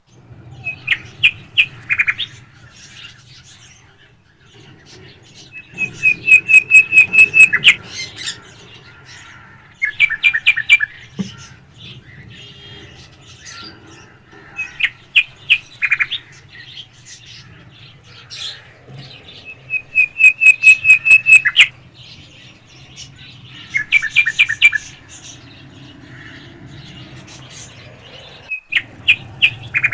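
Alexandrine parakeet chirping in about seven short bursts of rapid repeated high calls, coming every four to five seconds, over a steady low hum.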